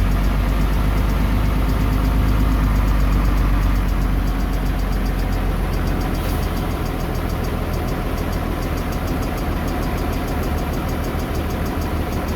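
Komatsu bulldozer's diesel engine running steadily, heavier and louder for the first few seconds, then easing off a little.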